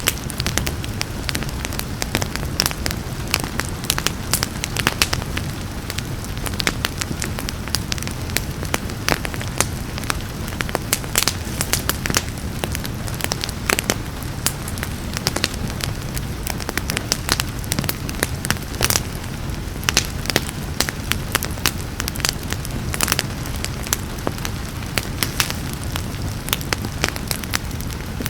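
Wood fire crackling steadily, with frequent sharp irregular pops over a low rumble of flames, and a soft hiss of rain underneath.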